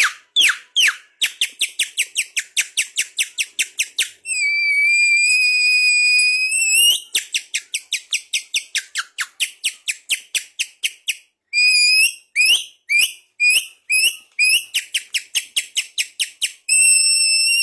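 A songbird singing loud, high whistled song: fast runs of short downward-sweeping notes, about seven a second, broken by long held whistles, one about four seconds in lasting some three seconds and another starting near the end.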